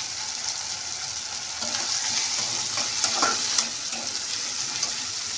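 Tomatoes, onions and green chillies sizzling in mustard oil in a kadhai, with a steady hiss. A metal spatula scrapes and stirs against the pan from about a second and a half in.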